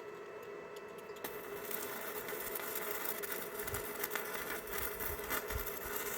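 Electric arc welding: the arc starts crackling and sizzling about a second in and keeps going, over a steady hum.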